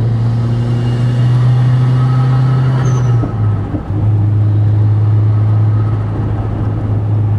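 In-cabin drone of a turbocharged Genesis Coupe 2.0T four-cylinder, fitted with a 19T turbo upgrade, driving at speed. The engine note holds a steady pitch, dips briefly about three and a half seconds in, then carries on slightly lower.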